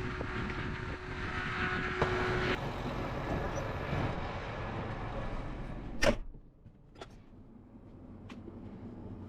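An engine running steadily. About six seconds in there is a sharp clunk and the running noise drops away, with a smaller click a second later.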